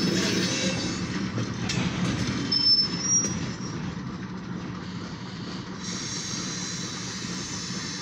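Covered grain hopper cars rolling slowly past on jointed track with a steady rumble and clatter, muffled by the car's windshield. A brief high-pitched wheel squeal comes about two and a half to three seconds in.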